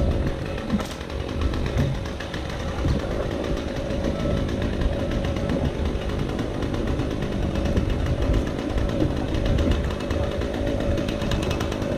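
Chainsaw engine running steadily, with heavy wind rumble on the microphone.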